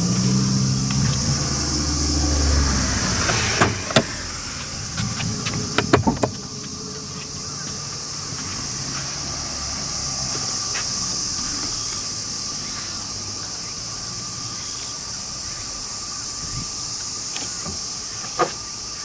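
Toyota Crown running, heard from inside the car: a low engine hum for the first few seconds, then several sharp clicks around four and six seconds in. After that it settles into quieter steady running with a thin constant whine, and one more click near the end.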